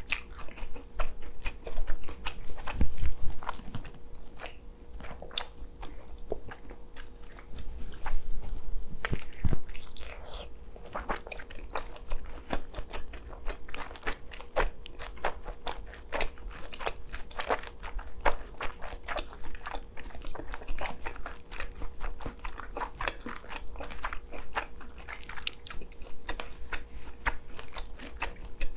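Close-miked eating of smoked kielbasa sausage: wet chewing with many small mouth clicks, and louder bites about three and nine seconds in.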